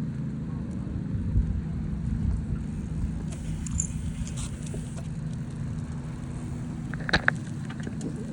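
Steady low hum and rumble of riding along on a bike, with wind on the microphone. Two sharp clicks about seven seconds in.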